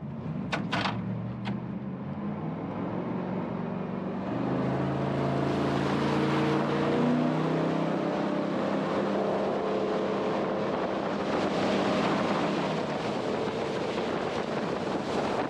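Jet boat's engine powering up about four seconds in, rising in pitch and then running steadily at speed, with wind noise on the microphone. A few sharp clicks in the first second.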